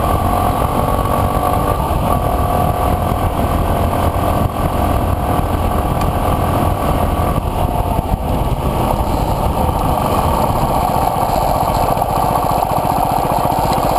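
Enduro dirt bike engine running under way, heard close from a camera mounted on the bike; the engine note rises and falls with the throttle, dipping briefly twice, around a third and halfway through.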